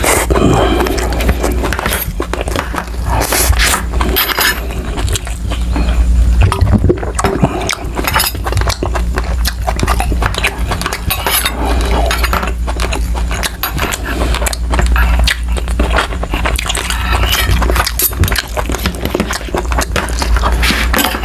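Close-miked chewing and wet mouth sounds of a man eating yellowfin tuna roe adobo: a continual run of small clicks and smacks over a steady low hum.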